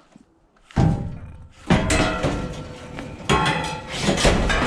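Scrap steel bed frames clanging as they are loaded into a van: three loud metal impacts, about a second in, near two seconds and past three seconds, each leaving a ringing clatter.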